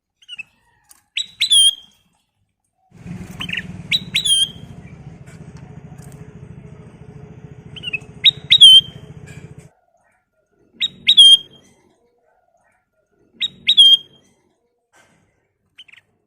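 Kutilang emas bulbul calling: about five short, loud phrases of two or three sharp, quickly sweeping whistled notes, every two to three seconds. A low buzzing hum runs underneath for several seconds from about three seconds in.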